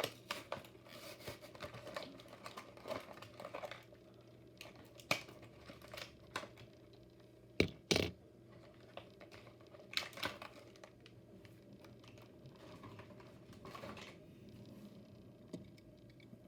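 Plastic packaging of a diecast toy car being worked open by hand: irregular clicks, crackling and crinkling, with a few sharper snaps around the middle.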